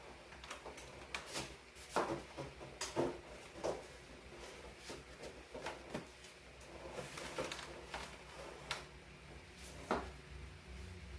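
Irregular clicks and knocks of hard objects being handled and set down, the loudest about two, three and ten seconds in, over a low steady hum.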